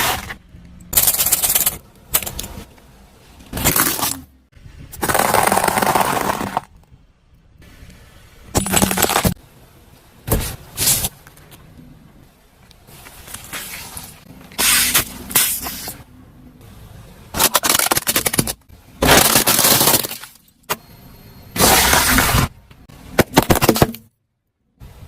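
A series of separate crunching, breaking crushes, about a dozen in all. Each is a loud burst of cracking lasting half a second to a second and a half, with short quieter gaps between, as brittle objects are crushed under a car.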